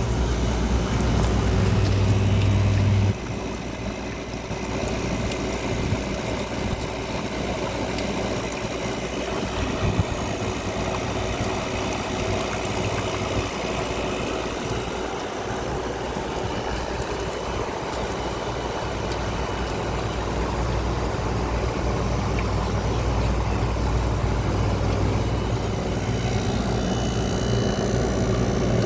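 Midea 5,000 BTU window air conditioner running: a steady rush of airflow over a low hum. The low hum drops away sharply about three seconds in and gradually builds back near the end, with a single brief knock around ten seconds in.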